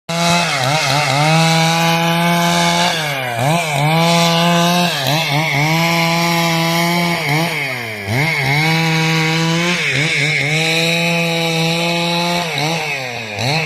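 Chainsaw running at high revs while cutting wood, its pitch dropping and climbing back every second or two.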